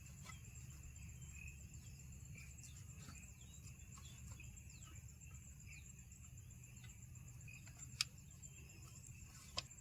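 Faint forest ambience: insects such as crickets keep up a steady high-pitched drone, with a few short bird chirps. A sharp click sounds about eight seconds in and another near the end.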